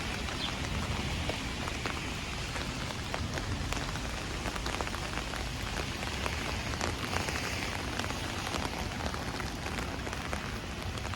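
Steady rain falling, with many individual raindrops ticking sharply on nearby surfaces over an even hiss.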